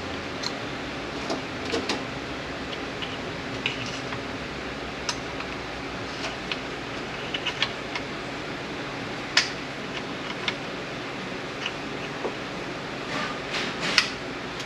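Scattered light metallic clicks and taps of hand tools on the parts of an 8L90 automatic transmission being taken apart, with a sharper click about nine seconds in and a few more near the end, over a steady fan hum.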